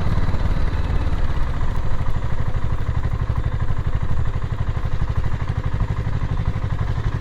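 BSA Gold Star 650 parallel-twin motorcycle engine running at low, steady revs while the bike is ridden, its exhaust beating in an even rapid pulse.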